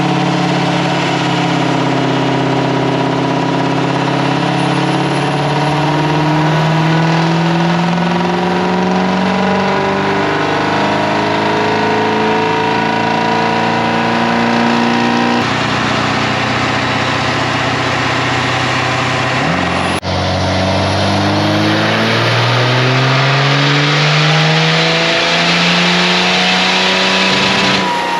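Pickup truck engine, most likely a diesel, run under load on a chassis dynamometer during a dyno pull, its note climbing steadily in pitch as the revs build. The pitch drops back and climbs again twice, about halfway through and near the end.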